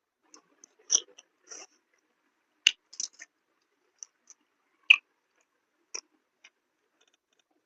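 Close-miked eating sounds: chewing with irregular, sharp wet mouth clicks and smacks, a few louder ones standing out among softer ones.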